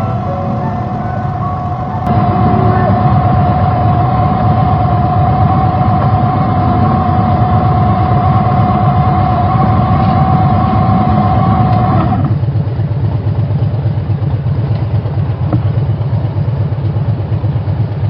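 Motorcycle on the move at steady speed: engine running under heavy wind noise, with a steady high tone that stops suddenly about twelve seconds in.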